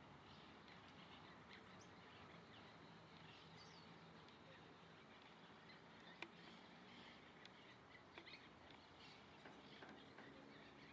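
Faint, scattered bird chirps over a low background hiss, with a single sharp click about six seconds in.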